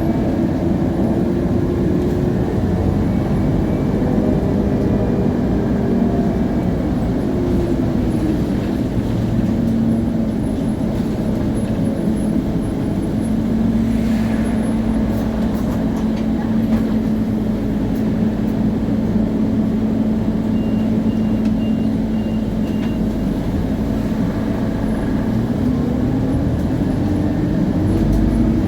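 Interior of a Scania CN280UA city bus on the move. The Scania DC9 five-cylinder diesel runs with the ZF Ecomat automatic gearbox, and the rear axle (differential) whines clearly. The whine shifts in pitch in the first seconds, holds steady through the middle, and starts to rise again near the end.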